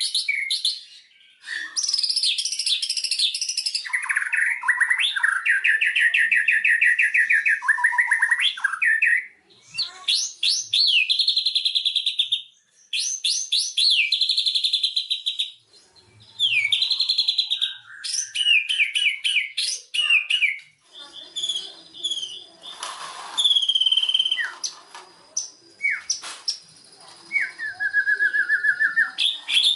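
White-rumped shama (murai batu) singing a long, varied song. Phrases of fast chattering trills, clear whistled notes and sliding calls are broken by short pauses. About two-thirds of the way in comes one brief harsh rasping note.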